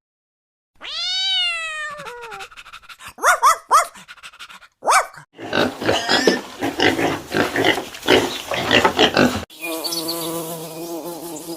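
A run of different animal calls, one after another: a long call that rises then falls about a second in, shorter calls, then a dense stretch of rough repeated calls. About nine and a half seconds in, a steady insect buzz takes over.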